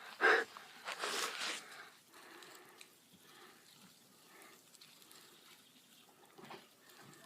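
Large bonfire crackling, with faint scattered pops and a louder rush of noise in the first second and a half.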